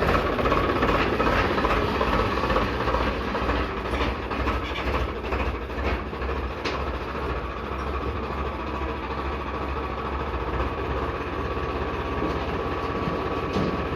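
Heavy machine's engine running steadily with a low drone, with a few sharp clicks in the middle.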